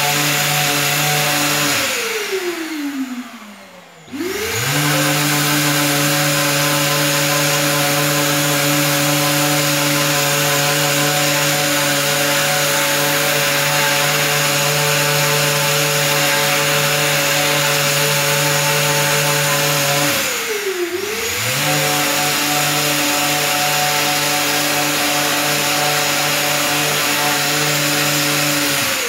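Electric orbital sander running steadily while sanding plastic body trim, a motor whine with several steady tones. About two seconds in it winds down and stops, then starts again and runs up to speed a second later; around twenty seconds in it briefly slows and picks back up.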